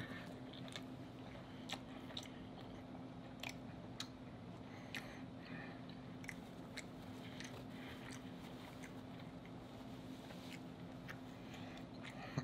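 Close-miked eating of soft crab meat: chewing with small wet mouth clicks and lip smacks every second or so, over a steady low hum.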